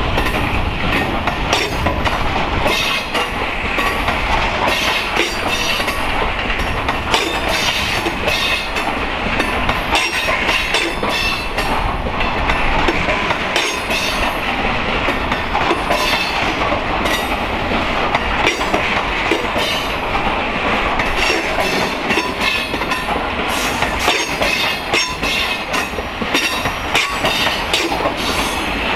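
Freight train of EWS bogie hopper wagons rolling past, the wheels clattering steadily and continuously over rail joints and pointwork.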